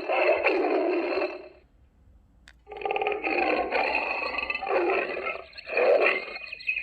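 Recorded big-cat roars played by an animal sound book. One roar ends about a second and a half in; after a short pause and a click comes a longer roar, then a brief one.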